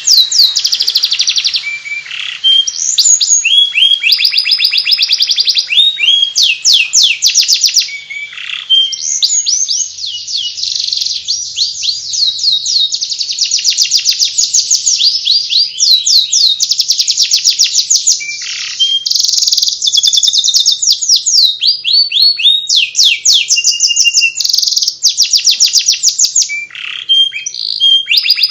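Domestic canary singing a long, unbroken twittering song: fast trills of repeated sweeping notes, high-pitched, with rolls and short chirps.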